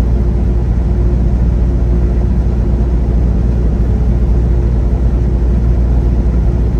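Semi-truck engine and road noise heard inside the cab while driving, a steady low drone with a faint steady hum above it.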